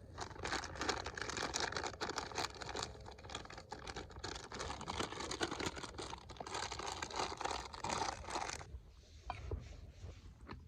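Crinkling and rustling of crumpled packaging being handled, a dense crackle of small clicks that stops abruptly about eight and a half seconds in.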